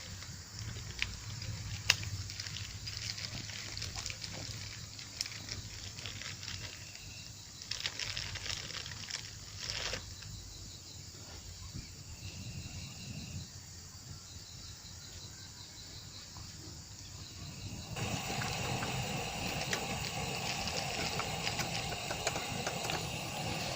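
Wood fire crackling, with scattered sharp pops; a steadier, louder background takes over abruptly near the end.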